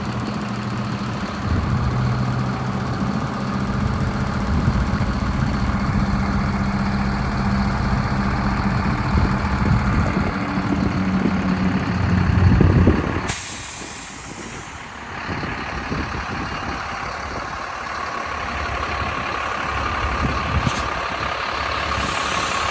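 Diesel engine of a 2008 Sterling dump truck idling steadily. About 13 seconds in there is a sudden burst of hiss, and the engine sound then drops lower for a while.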